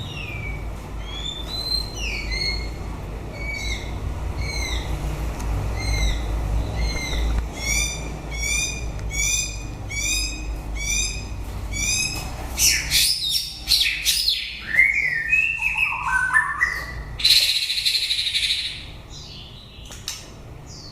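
White-rumped shama singing: a long run of the same clear whistled note repeated about one and a half times a second, then a faster, more varied phrase of sliding notes that ends in a loud, harsher note.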